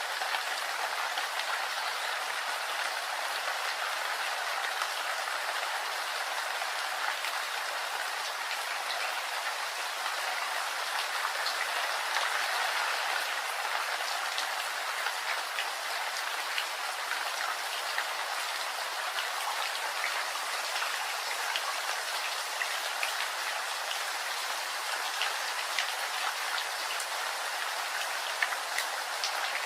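Steady rain falling, an even hiss dotted with many small sharp drop hits.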